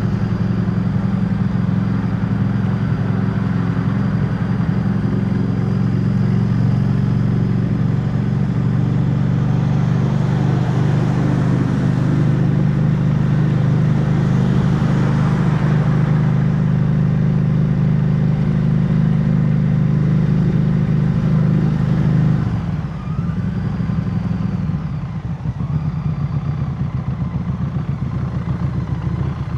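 Harley-Davidson Street 500's V-twin engine running steadily under throttle. About three-quarters of the way through it eases off and the level drops, then it picks up again near the end.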